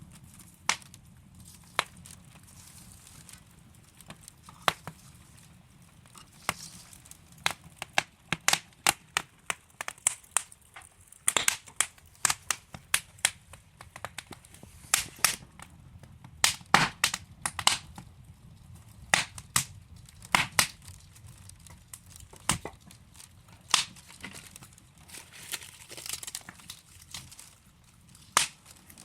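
Wood fire burning in a fireplace: burning logs crackling and popping in sharp, irregular snaps over a faint low hiss, the pops coming thickest in bursts through the middle.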